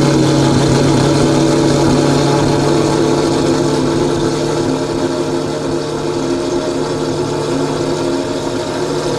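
Lamborghini Revuelto's V12 with a Gintani aftermarket exhaust idling steadily.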